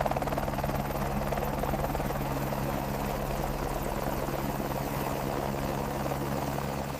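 Rescue helicopter in flight, its rotor and engine running steadily with a fast even chop over a constant low hum; the sound cuts off suddenly at the end.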